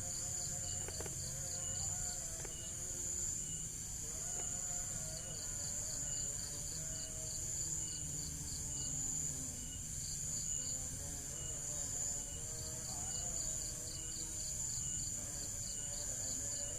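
Insects, crickets by the sound, chirping steadily: a continuous high-pitched trill with a pulsing chirp repeated several times a second over it.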